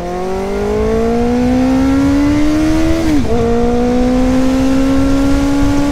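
Kawasaki Z900's inline-four engine accelerating under load: the engine note climbs steadily, drops with an upshift about three seconds in, then climbs again more slowly in the next gear.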